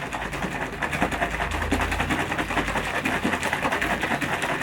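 Whey protein shake being shaken hard in a shaker cup of water to break up lumps of powder that have not dissolved: a rapid, steady rattling and sloshing that stops shortly after the end.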